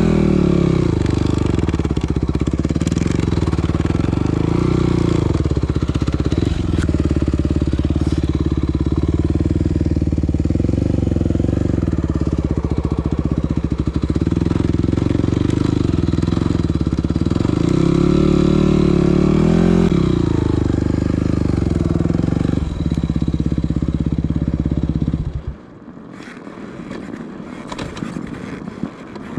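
Yamaha WR250F's single-cylinder four-stroke engine running hard under load, its revs rising and falling a few times. About 25 seconds in, the engine sound stops suddenly and only a much quieter windy noise with a few clicks is left.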